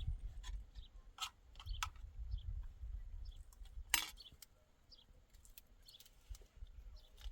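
Scattered light clicks and clinks, with one sharper click about four seconds in, over a low rumble that dies away around the middle.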